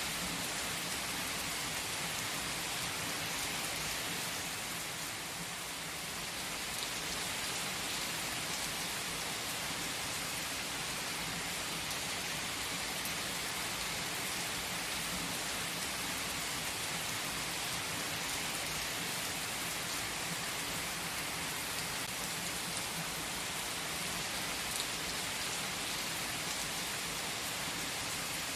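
Steady rain, an even hiss with faint scattered patter of drops.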